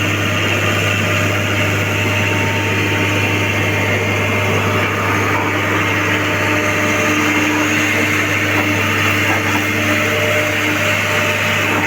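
Heavy diesel engine of an excavator running steadily, with a constant low hum and a few held tones over it.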